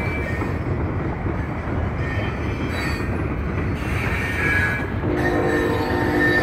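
Loaded sand-train hopper cars rolling across a wooden trestle bridge: a steady low rumble with faint thin wheel squeals. About five seconds in, the locomotive horn sounds again and holds.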